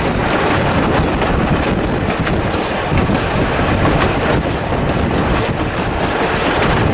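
A moving train heard from an open window of a wooden passenger carriage: a loud, steady rumble of wheels running on the track, mixed with wind rushing over the microphone and a few faint clicks.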